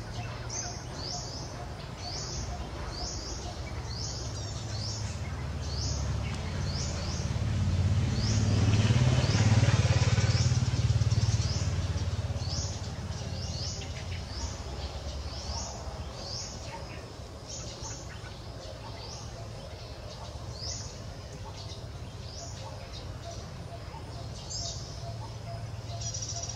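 Small bird chirping over and over, short high notes sweeping downward, about one or two a second. Under it runs a steady low hum, and a louder low rumble swells and fades about a third of the way through.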